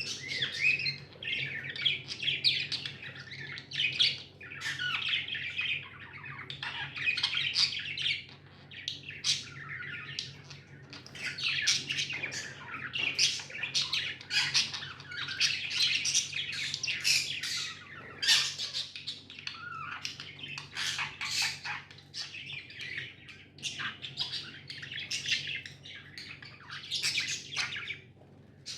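Budgerigars chattering, a continuous stream of short chirps and squawks.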